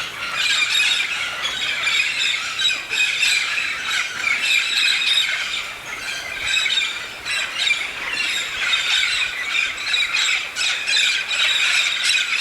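A large flock of red-spectacled parrots squawking, many harsh calls overlapping into a continuous din.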